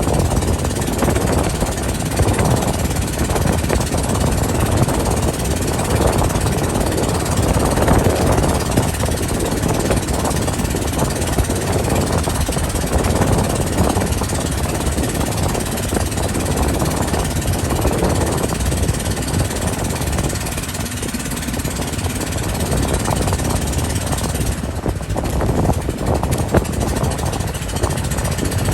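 Motorboat under way: a loud, steady engine rumble mixed with rushing noise that swells and eases every second or two.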